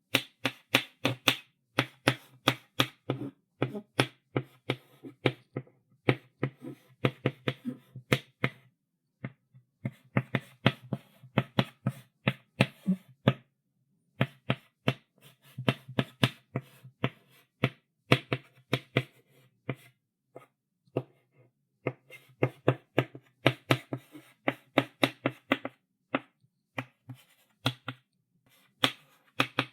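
Chalk writing on a chalkboard: quick runs of taps and short scratchy strokes as the chalk strikes and drags across the board, with brief pauses between runs of writing.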